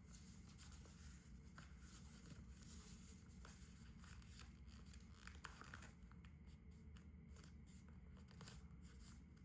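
Faint rustling and creasing of a sheet of A4 paper being folded by hand, with scattered soft crackles over a low steady room hum.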